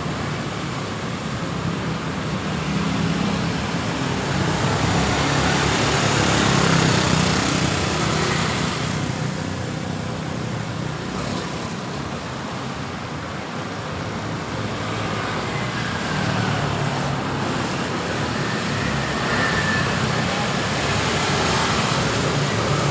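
Road traffic going past: a steady rush of passing vehicles that swells louder a few seconds in and again in the second half.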